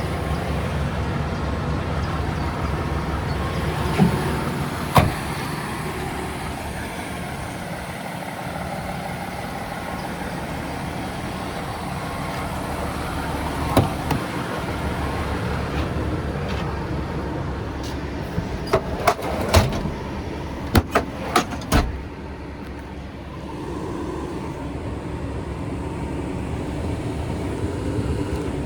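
DAF XF 480 truck's PACCAR MX-13 six-cylinder diesel idling steadily. Sharp knocks or clicks come twice about four to five seconds in, once about halfway through, and in a quick cluster later on.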